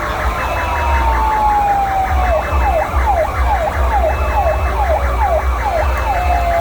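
Fire truck sirens sounding together: the loudest slides in a slow falling wail, switches about two seconds in to a fast yelp of about two and a half sweeps a second, and returns to a slow wail near the end, with other sirens overlapping and a low rumble beneath.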